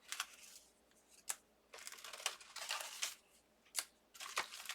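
Card stock die-cut pieces being handled: irregular short rustles and scrapes of paper with a few sharp ticks.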